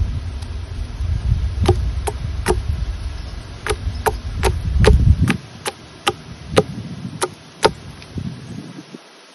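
A run of sharp knocks, about two or three a second, over a low rumble that stops about five seconds in.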